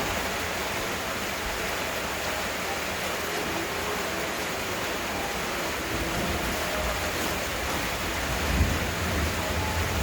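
Heavy rain falling steadily, a dense even hiss. Low rumbling swells in the second half, with a brief loud low thump about eight and a half seconds in.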